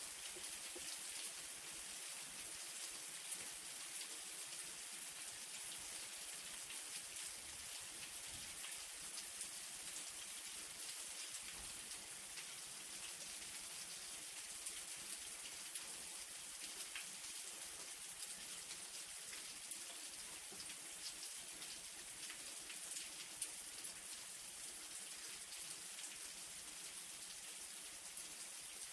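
Light rain falling steadily: an even, soft hiss with scattered individual drops ticking on surfaces.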